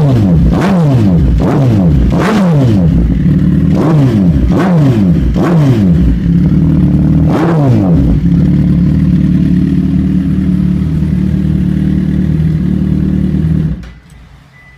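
Suzuki GSX-R1000 inline-four with a BODIS aftermarket muffler, revved in quick throttle blips, each rising then falling back, about one every 0.7 s for some eight seconds. It then settles to a steady idle and cuts off abruptly near the end as the engine is switched off.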